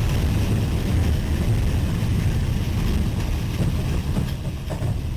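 Tornado winds rumbling heavily and buffeting the microphone in a deep, steady roar, easing slightly near the end.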